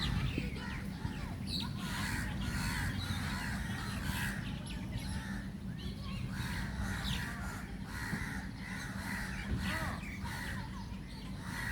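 A flock of birds chirping and calling together, many short overlapping calls in a dense, continuous chorus over a low steady background rumble.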